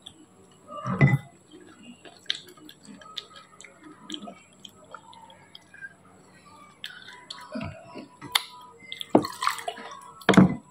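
Close-up eating sounds: chewing with many small wet mouth clicks and smacks, and a few louder short mouth sounds about a second in and near the end.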